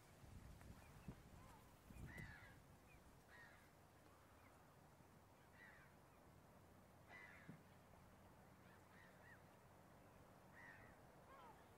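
Faint, short bird calls, one every second or so, over a quiet background.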